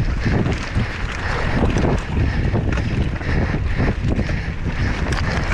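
Wind buffeting the microphone of a mountain bike rider's onboard camera at speed, with the steady rattle and knocks of the bike and tyres over rough ground.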